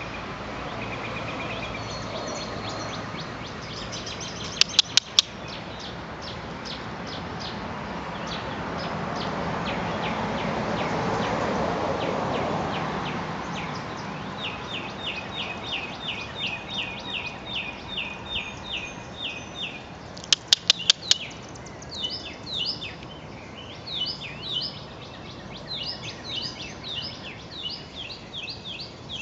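Birds chirping in the background: a steady run of repeated high chirps, about three a second, through the middle, then quicker, varied chirps. Two quick bursts of four or five sharp clicks, the loudest sounds, come about five seconds in and again about twenty seconds in. A broad rushing noise swells and fades in the first half.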